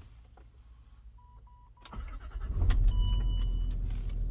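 Land Rover Discovery 3 being started: three short electronic beeps, then the engine cranks and catches about two seconds in and settles to a steady idle. A further electronic chime sounds just after it fires.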